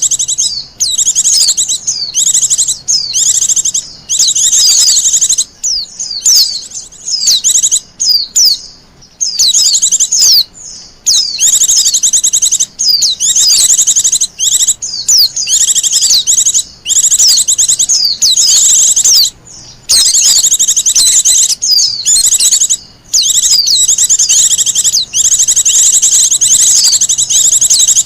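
Wild white-eye (pleci) singing: a fast, high-pitched twittering chatter that runs almost without a break, with only brief pauses.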